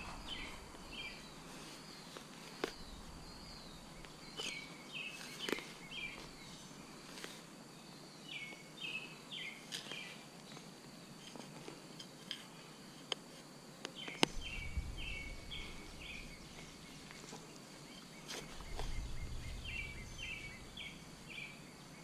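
A bird singing a short phrase of several notes, repeated about every four to five seconds, over scattered sharp clicks and scrapes of a hand digger cutting a plug through soil and roots.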